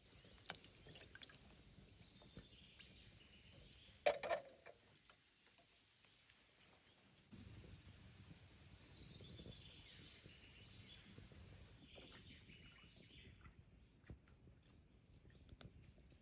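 Quiet outdoor ambience: a few light clicks and one sharp knock about four seconds in. From about seven seconds a low, steady rushing sound sets in, with birds chirping.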